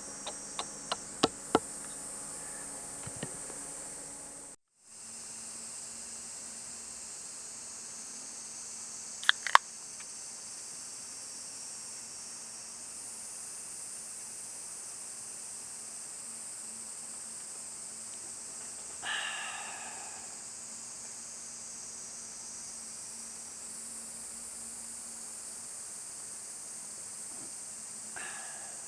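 Steady high-pitched insect chorus in a forest, with a few sharp clicks in the first couple of seconds and two more around ten seconds in. A short call sounds about nineteen seconds in, with a fainter one near the end.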